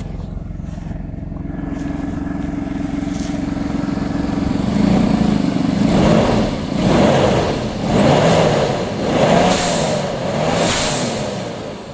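Audi A6 C5 2.7 biturbo twin-turbo V6 engine idling steadily, then revved up and let fall back about five times. The owner hears an unidentified rattle from the engine and is asking what it is.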